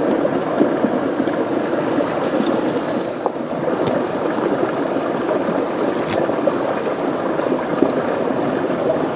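Steady rush and gurgle of a rainforest river flowing, with a thin high steady whine above it that fades near the end, and two faint clicks.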